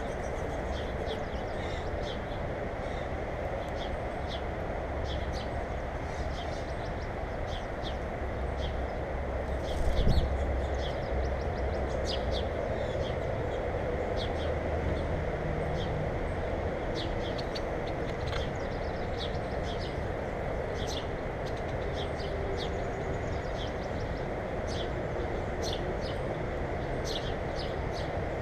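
Small birds chirping in many short, high notes over a steady rushing background noise, with a brief low thump about ten seconds in.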